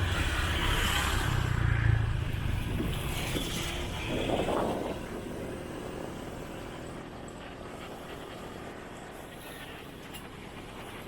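Motorbike engine running with wind and road noise while riding; loud for the first few seconds, then it drops away to a lower steady rumble after about five seconds.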